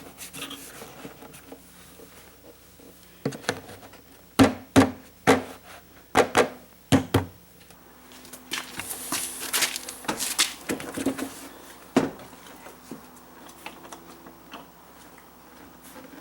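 Hands fitting the plastic caps back onto the rear of a car's headlight housing: a run of sharp plastic clicks and knocks, then a longer rustle and a few more knocks, over a faint steady hum.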